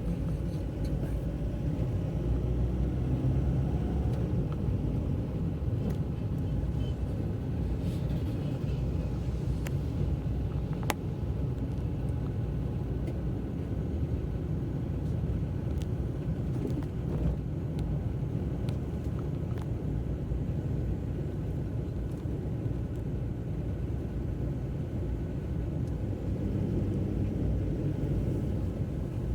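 Car driving on wet roads, a steady low rumble of tyres and engine, with a few short clicks here and there.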